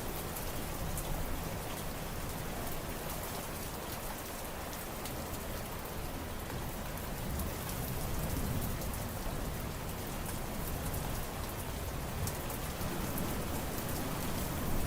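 Steady rain falling, a dense patter of drops with a low rumble underneath.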